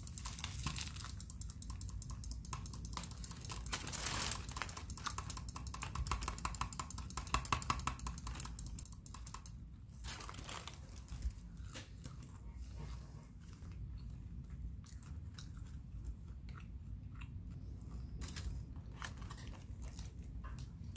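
Close-up chewing and biting of a tofu banh mi, its crusty baguette crackling in fine crunches. The crunching is dense at first and thins out in the second half.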